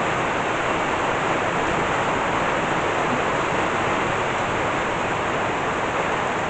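Rain pouring down steadily in a thunderstorm downpour, an even rushing hiss with no breaks.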